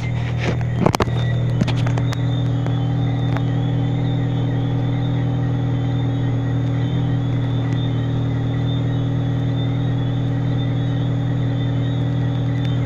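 Steady low mechanical hum at a constant pitch, like an engine or motor running, over a soft even hiss, with a few sharp ticks in the first couple of seconds.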